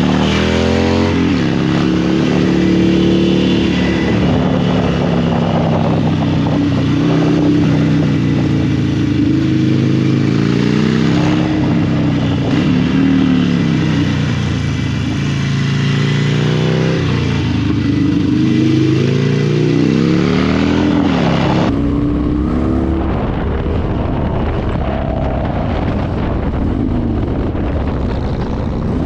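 Harley-Davidson V-twin motorcycle engine under way, its pitch climbing through each gear and dropping at every shift, several times over. From about three-quarters of the way in, wind buffeting on the microphone takes over and the engine fades beneath it.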